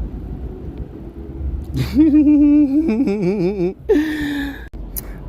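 A man's wordless drawn-out vocal sound, held on one pitch and then wavering up and down, followed by a shorter falling one, over a steady low rumble.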